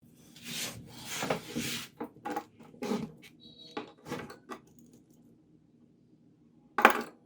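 Hard objects clattering and clinking as they are handled, several times in the first few seconds, then a quiet gap and one louder sharp clack near the end.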